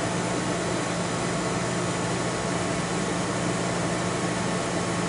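Portable air conditioner running: a steady, even rush of air with a low hum underneath.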